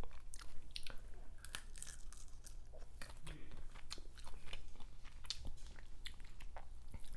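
Close-miked chewing and biting of sauce-coated shell-on shrimp: irregular wet clicks and crunches.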